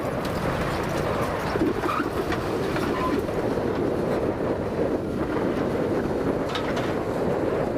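Komatsu PC200 hydraulic excavator's diesel engine running steadily. A couple of short metallic squeaks come about two and three seconds in, with a few sharp clicks near the end.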